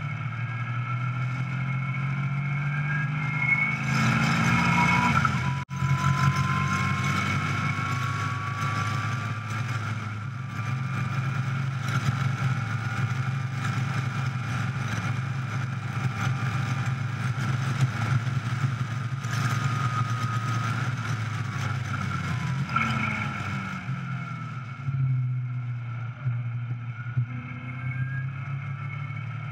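Caterham 420R SV's four-cylinder engine heard from the open cockpit at speed on track, its note climbing as it accelerates, with a brief break about six seconds in and a rise again afterwards, then quieter and lower near the end. Wind rush over the open car runs under the engine.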